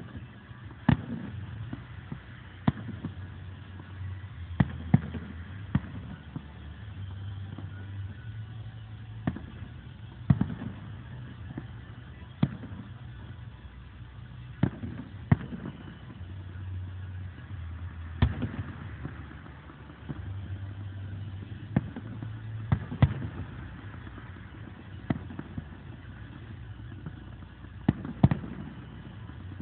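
Aerial firework shells bursting in the distance. There are sharp bangs at irregular gaps of a second or two, sometimes two or three close together, over a low rumble.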